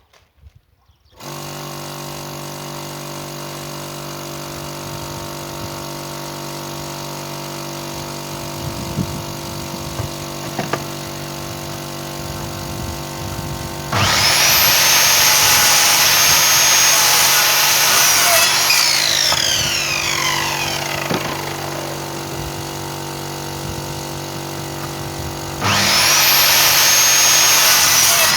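An electric power saw in a woodworking session. A steady motor hum starts about a second in. Around the middle a much louder spell with a high whine begins, then winds down with falling pitch. The loud whine starts again near the end.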